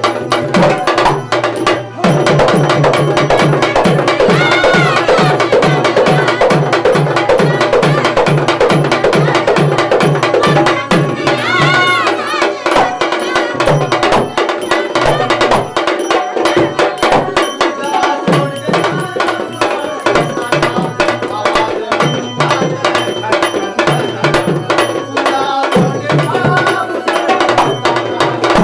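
Marathi tamasha folk music: a fast, steady hand-drum rhythm under a melody line.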